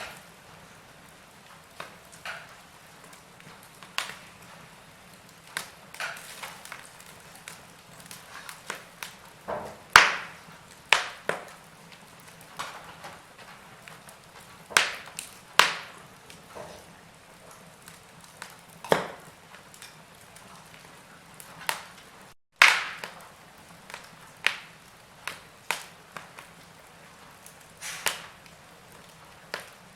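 Wood fire burning in a fireplace, crackling with irregular sharp pops and snaps over a faint steady hiss. The sound cuts out for an instant about three-quarters of the way through, just before one of the loudest pops.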